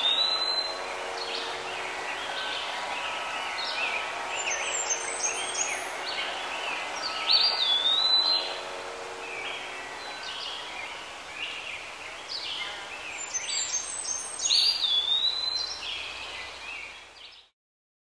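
Several birds calling and chirping over a steady background hiss, with one whistled call that rises and then falls repeating about every seven seconds. The sound fades out near the end.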